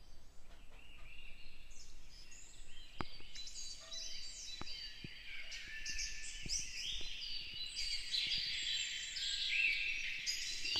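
Small birds chirping and twittering: many short, high calls overlapping, getting busier toward the end, with a few faint sharp ticks among them.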